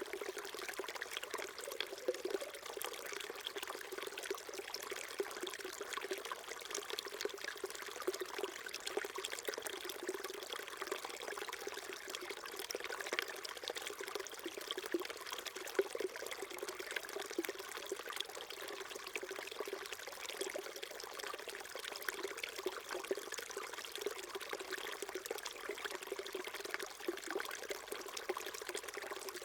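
Small mountain stream flowing steadily, a continuous babble and trickle of water over rocks.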